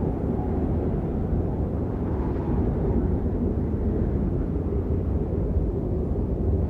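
Steady rain, a dense deep hiss weighted to the low end, with no separate drops or pitched sounds standing out.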